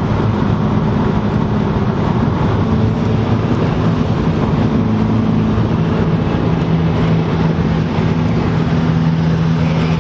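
Car driving at a steady speed: a constant low engine drone with road and wind noise.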